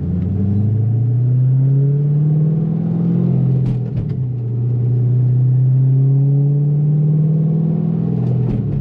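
Twin-turbo C6 Corvette V8 and exhaust heard from inside the cabin, pulling away under light throttle while the engine is still warming up. The engine note climbs steadily, drops at an upshift about four seconds in, then climbs again before another shift near the end.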